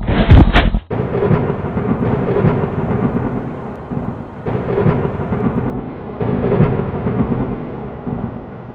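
A loud sudden crash, then a thunder-like rumbling noise that swells and eases every second or so.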